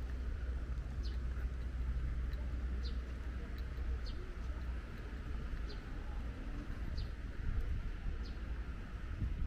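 Birds chirping outdoors: short, sharp high calls about once a second, over a steady low rumble.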